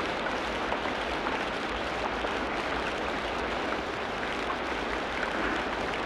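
Steady rain falling in a tropical rainforest: an even wash of drops with small scattered ticks, without let-up.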